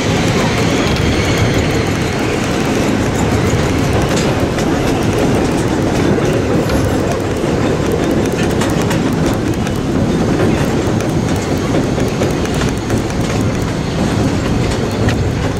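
Small amusement-park train running along its track, heard from a passenger car. It makes a steady rumble with scattered clicks from the wheels on the rails.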